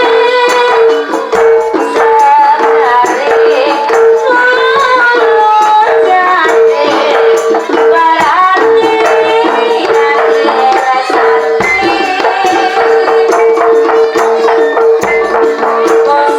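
Live jaranan music from an East Javanese ensemble: a bending melody line over a steady held note, with a driving percussion rhythm of drum and rattle-like strokes.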